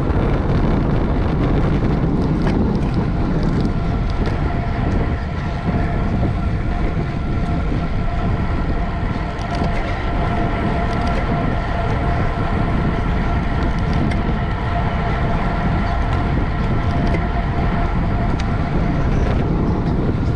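Wind rushing over the microphone of a road bicycle ridden at race speed, mixed with tyre and drivetrain noise and a steady whine.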